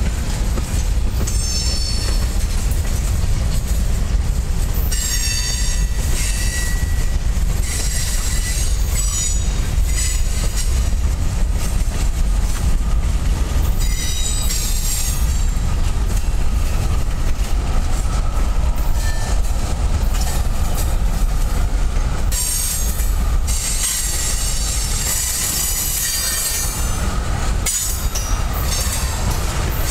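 Freight cars of a Norfolk Southern train rolling past: a steady low rumble of steel wheels on rail, broken by repeated high-pitched metal squeals from the wheels, the longest near the end.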